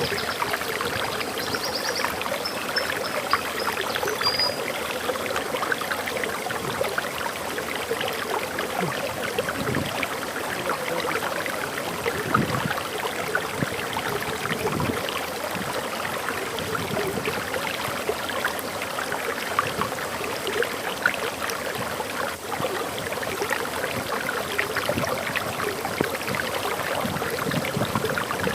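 Water pouring steadily over a small forest waterfall. A bird gives a few short, high chirps in the first few seconds.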